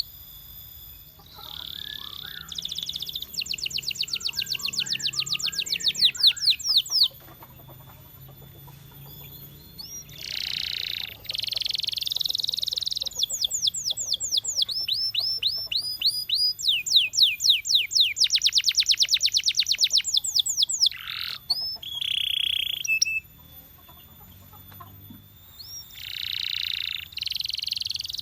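A canary singing in phrases: fast trills of quickly repeated rising notes, some buzzy held notes, and short pauses between the phrases.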